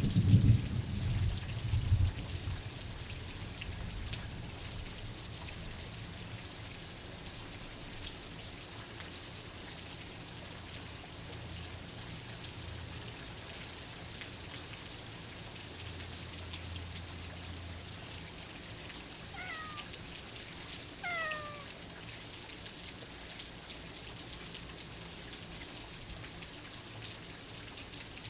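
Steady rain with a low thunder rumble fading out in the first two seconds, then a cat meowing twice, in quick succession, about two-thirds of the way through.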